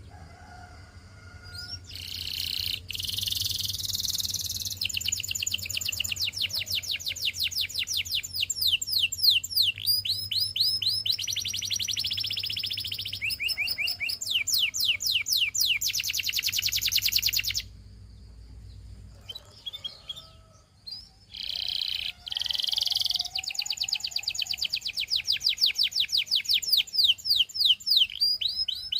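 Canary singing long phrases of fast rolling trills and rapidly repeated notes. The song breaks off a little past halfway and starts again a few seconds later.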